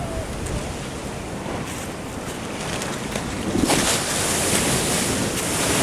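Ocean surf washing in, with wind on the microphone; a wave breaks about three and a half seconds in and the wash grows louder.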